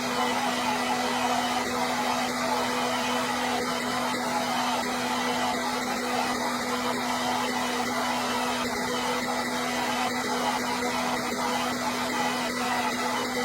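Hair dryer running continuously at a steady speed: an even rush of air with a steady motor hum.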